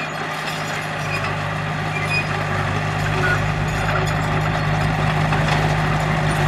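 Diesel engine of a heavy earthmoving machine running steadily, growing gradually louder.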